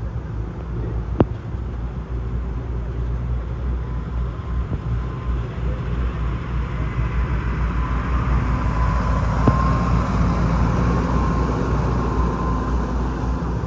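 Motor vehicle engine running steadily with a faint whine, growing louder about two-thirds of the way through. Two sharp clicks, one a little over a second in and one about two-thirds through.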